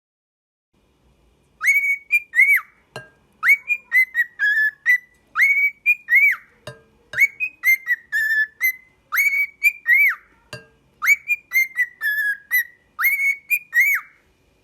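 A pet parrot whistling a short tune over and over: phrases of clear rising and arching notes, starting about a second and a half in and stopping near the end.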